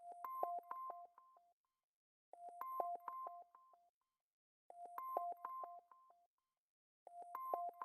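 A short electronic pattern of quick beeping notes at two or three fixed pitches, repeating about every two and a half seconds with silence between, four times.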